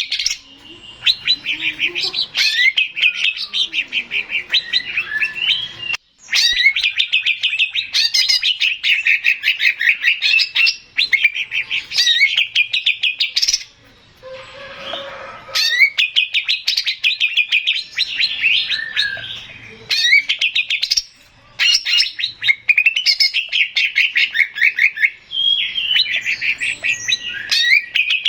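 Male cucak ijo (green leafbird, Chloropsis) singing: long phrases of rapid, sharp chirping notes run together into fast trills, broken by short pauses every several seconds.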